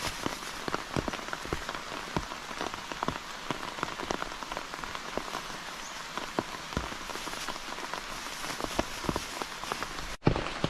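Steady rain falling, with many irregular drops tapping close by. The sound breaks off for a moment about ten seconds in and comes back with a loud tap.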